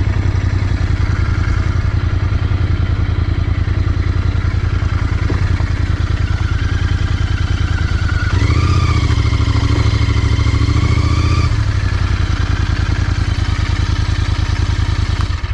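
Royal Enfield Continental GT 650's parallel-twin engine running steadily. About eight seconds in it revs up for roughly three seconds, then settles back, and the sound cuts off sharply at the very end.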